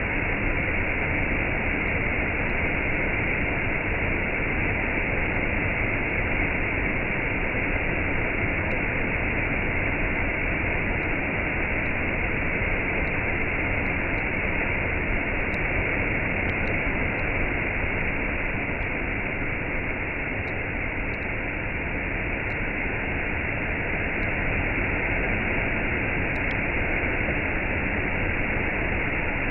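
Waterfall with a cascade: a steady, unbroken rush of falling water.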